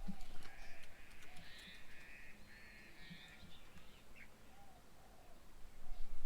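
Wild birds calling: a few short, harsh rattling calls in the first three seconds or so, with fainter higher calls and a few soft lower notes.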